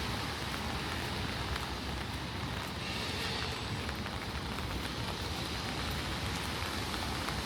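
Steady rain falling on a wet city street: an even hiss with faint scattered drop ticks.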